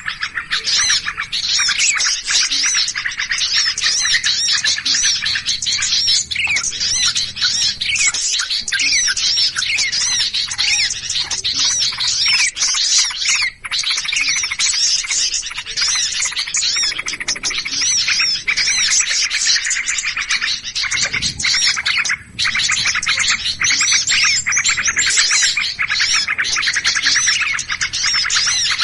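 Dense, unbroken chorus of many small songbirds giving rapid, agitated chirps and calls: a bird-trapping lure recording of alarmed, mobbing birds. The chorus drops out briefly twice, about halfway through and again later.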